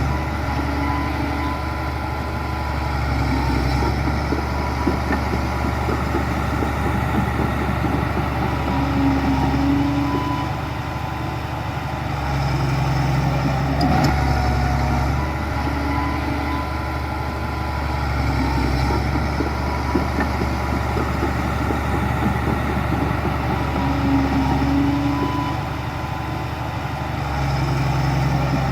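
Heavy diesel earthmoving machinery running continuously, its engine note rising and easing in a repeating cycle about every thirteen seconds as it works under changing load.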